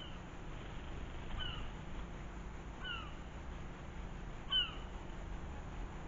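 A bird gives a short falling call four times, about a second and a half apart, the last one loudest.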